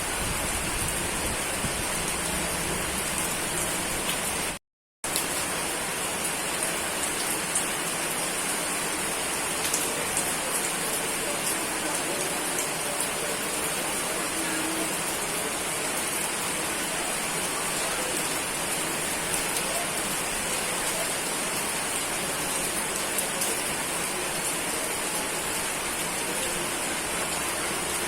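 Steady rainfall: a continuous hiss of rain on surfaces, with scattered drop ticks. The sound cuts out completely for about half a second a little over four seconds in, then resumes.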